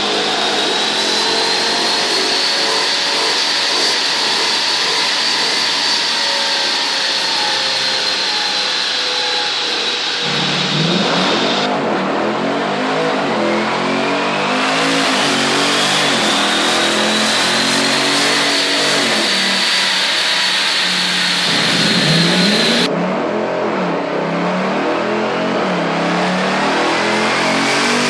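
Jaguar XK 5.0 V8 with an aftermarket exhaust, pulling hard through long runs, with a high whine that climbs in pitch. The whine cuts off suddenly about 12 seconds in and again about 23 seconds in, and each time a new pull begins.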